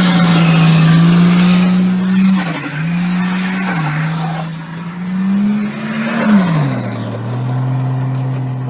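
Car engine held at high revs during a drift, with tyre noise over it; the revs dip briefly a couple of times, climb back, then drop lower near the end.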